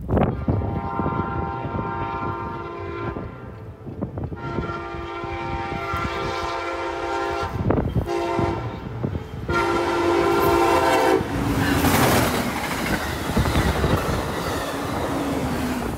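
Passenger train's air horn sounding two long blasts and a shorter third, the warning for a grade crossing. Then the train passes close, a loud rush of wheel and wind noise with rapid clickety-clack from the rail joints.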